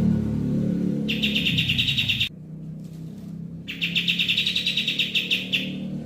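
A songbird's rapid, buzzy trill, given twice, each lasting about a second and a half, over a steady low hum.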